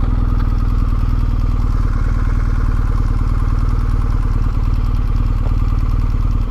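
BMW R 1250 GS's boxer-twin engine running steadily at low revs, an even rapid pulse with no rise or fall in pitch.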